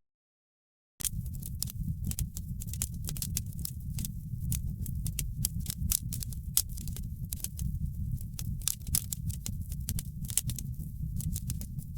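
Wood fire in a fireplace crackling: many quick sharp pops and snaps over a steady low rumble of the flames. The sound cuts out to silence for about the first second, then comes back.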